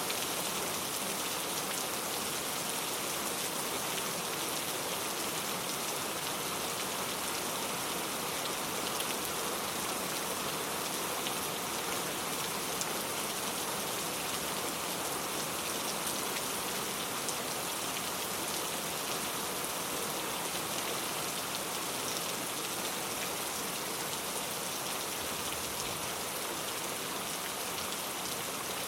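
Steady rainfall, an even hiss of many drops striking a surface, with fine scattered drop ticks and no thunder.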